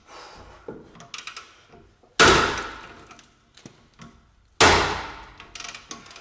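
Two hard hammer blows on metal suspension parts, about two and a half seconds apart, each ringing out for about a second, with light clicks of tools between them.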